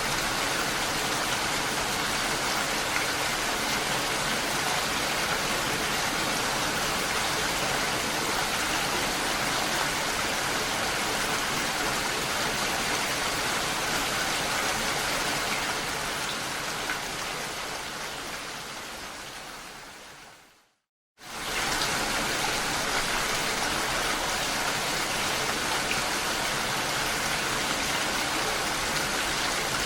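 Steady rain falling. About two-thirds of the way through it fades out over several seconds to a moment of complete silence, then comes back suddenly at full strength.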